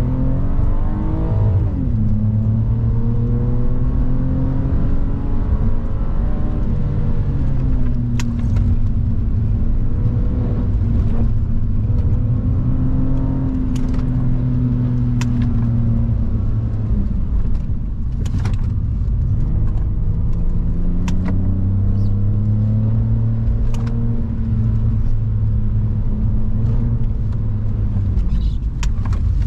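BMW E46 330i's 3.0-litre straight-six heard from inside the cabin, revving hard with a sharp drop in pitch at an upshift about a second and a half in, then pulling, easing off and picking up again through corners, with revs falling near the end. Scattered sharp clicks sound over the engine.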